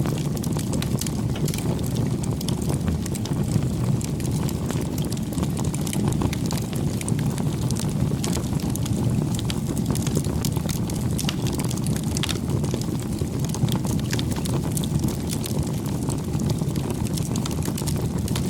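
Campfire burning: a steady low rush of flames with frequent small crackles and pops from the burning wood.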